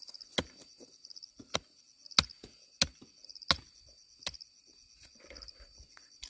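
A steady rhythm of sharp chopping strikes, about one every two-thirds of a second, with an insect trilling steadily in the background.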